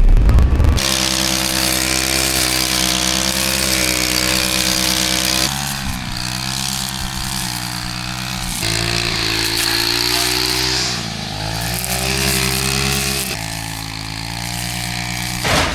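An engine running steadily, its pitch shifting and settling again at several points.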